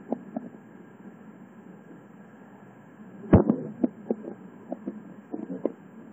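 Passenger coach of a moving express train, heard from its vestibule: a steady running noise with irregular knocks from the wheels and car body. It is fairly even for the first three seconds, then a sharp loud knock comes a little over three seconds in, followed by a run of smaller knocks.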